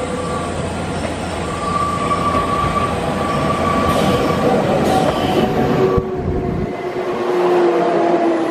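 Nankai 2000 series electric train approaching and running past close by, with steady high-pitched wheel squeal. Near the end a motor whine falls slowly in pitch as the train slows.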